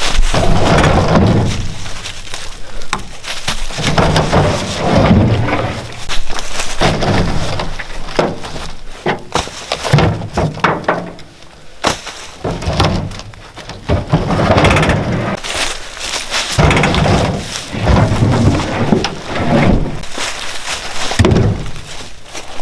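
Heavy wooden thuds and knocks every second or two: firewood logs being handled and dropped, with a deep thump as each lands.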